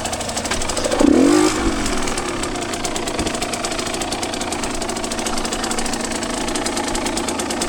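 Two-stroke dirt bike engine running, with one quick rev about a second in that rises and falls in pitch.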